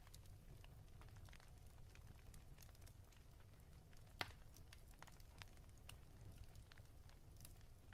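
Faint fireplace crackle: scattered small pops over a low rumble, with one sharper pop about four seconds in.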